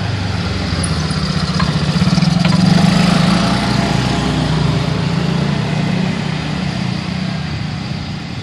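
A small motorcycle engine passing close by, swelling to its loudest about three seconds in and then slowly fading.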